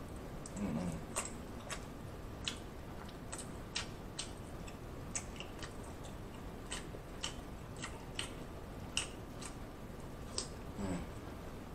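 Close-miked wet mouth clicks and smacks of a man chewing lobster meat and noodles with his mouth, irregular sharp clicks one or two a second, with a louder, longer mouth sound about a second in and again near the end.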